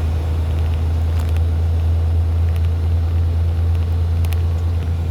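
Semi-truck's diesel engine droning steadily, heard from inside the cab while driving, with a few faint clicks.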